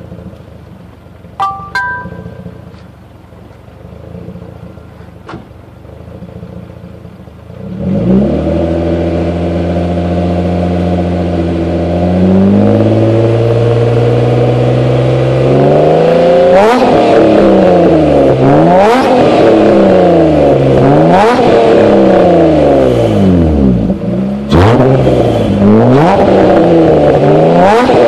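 A Ford Probe GT's swapped-in KL-ZE 2.5-litre V6 starts up about eight seconds in and settles into a steady idle. From about halfway through it is blipped repeatedly, revving up and dropping back roughly every two seconds. The sound comes through an exhaust of aftermarket headers, a hollowed catalytic converter, 2.5-inch piping, a Magnaflow resonator and a muffler. Before the start there are only a few short electronic tones.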